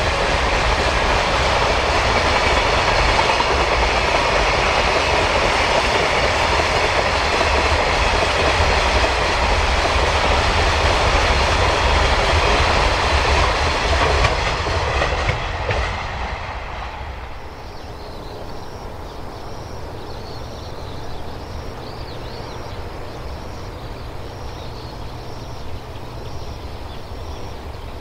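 A train passing close by, loud and steady for about sixteen seconds, then dropping away quickly as the end of the train goes past. Afterwards faint high chirps repeat about once a second.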